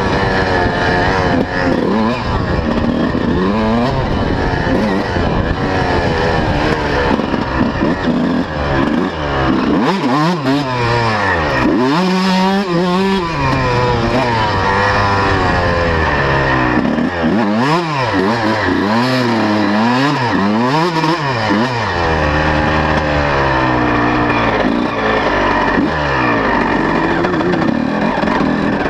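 A 125 cc two-stroke motocross bike being ridden hard, its engine pitch climbing and falling over and over as the throttle opens and shuts.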